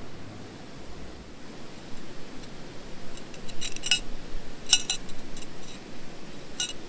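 Metal camp cookware and utensils clinking. There are a few light, ringing clinks around the middle and one near the end, over a steady low hiss.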